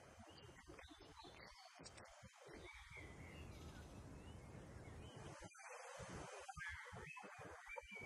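Faint woodland ambience: birds calling in short chirps over a low, uneven rumble.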